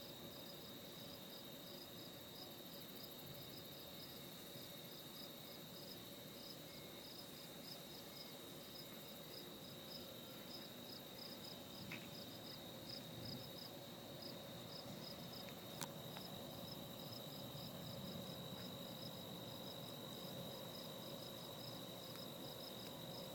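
Crickets chirping in a steady, evenly repeating pulse over a continuous high-pitched insect trill. A single sharp click sounds about sixteen seconds in.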